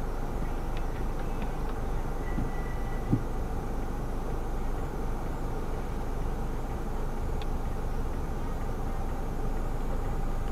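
Steady idling hum of a stopped car heard from inside its cabin, with one short thump about three seconds in.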